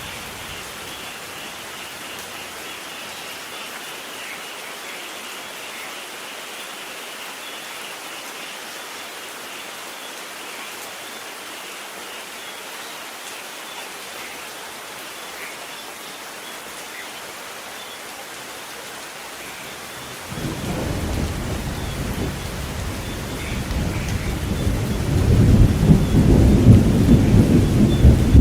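Steady rain falling, then about two-thirds of the way in a sudden low rumble of thunder that swells and is loudest near the end.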